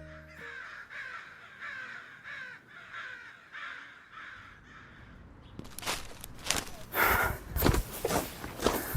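A bird giving a rapid series of short, harsh, falling calls, about two a second, for some five seconds. About six seconds in, loud irregular crunching steps take over.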